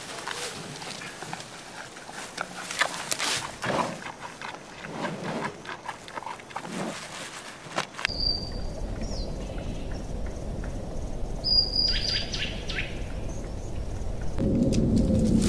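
Outdoor wildlife ambience with many short bird chirps and clicks, changing suddenly about halfway through to a steady low rumble with two brief high whistles; a louder sustained tone, likely music, comes in near the end.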